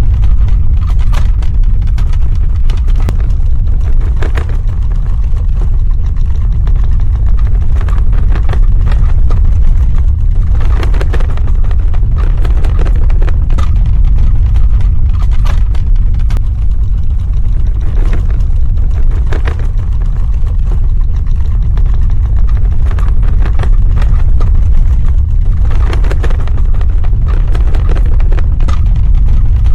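Earthquake sound effect: a loud, steady deep rumble, with bursts of crackling and rattling every several seconds.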